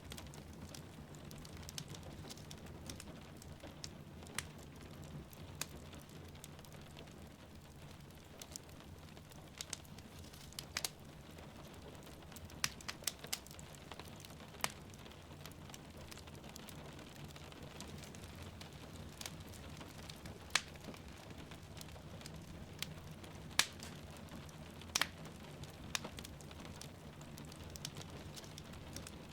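Wood fire crackling, with sharp pops at irregular intervals, over a steady wash of rain.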